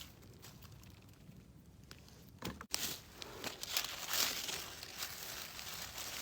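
Dry leaves and forest undergrowth rustling and crackling as someone moves through them: faint at first, then after a brief break about two and a half seconds in, louder and busier, with many short crackles.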